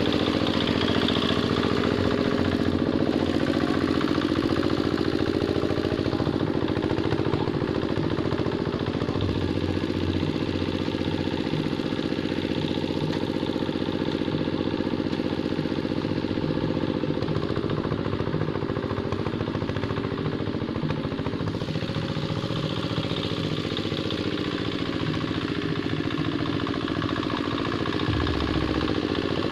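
Hand tractor's engine running steadily while ploughing a muddy rice field, with some clatter and slight rises and falls in engine speed.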